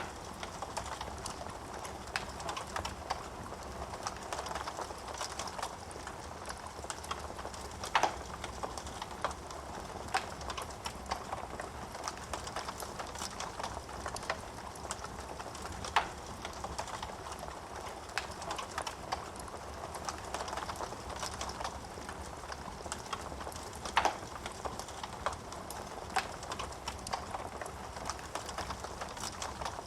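Wood fire in a fireplace crackling, a steady stream of small snaps, with a louder pop about every eight seconds.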